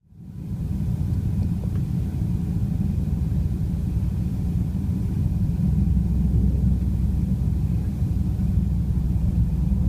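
A steady low rumble that fades in at the start.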